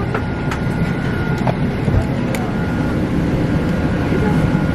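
Steady low vehicle engine rumble with a constant thin high whine over it, broken by a few light clicks.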